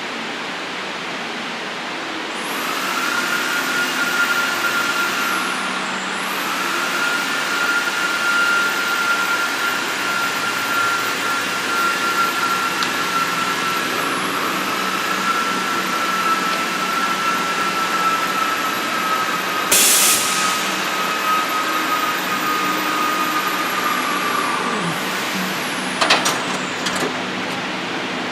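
CNC router spindle running with a steady high whine over a noisy cutting hiss. It spins up about two seconds in, dips briefly twice, and winds down near the end. A short loud hiss comes about two-thirds of the way through, and a few clicks follow the wind-down.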